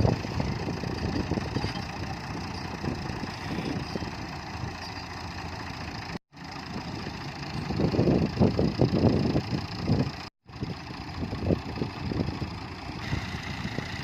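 Diesel tractor engines running under load in a recovery pull, louder and heavier for a couple of seconds in the middle. The sound cuts out abruptly twice.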